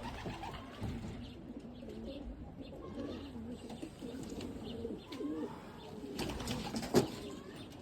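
Homing pigeons cooing, with low wavering calls running on and overlapping. A single sharp knock comes near the end.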